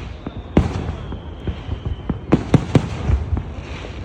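Fireworks display: a stream of sharp bangs and crackles over a low rumble, the loudest a quick run of three about two and a half seconds in. A faint, high, slightly falling whistle runs for about a second and a half from half a second in.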